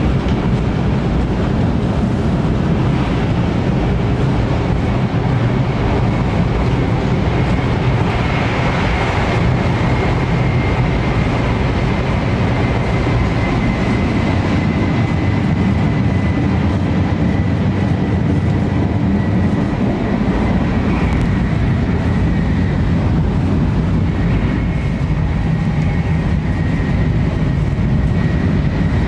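500 Series Shinkansen running at speed, heard from inside the car's vestibule: a steady low rumble with a thin high whine that drifts slightly lower.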